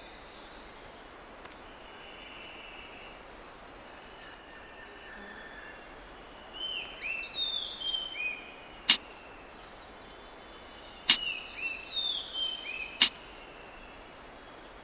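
Superb bird of paradise courtship display: two runs of short, sharp downward-sliding call notes, with three loud sharp snaps among them, over steady rainforest ambience of distant bird calls.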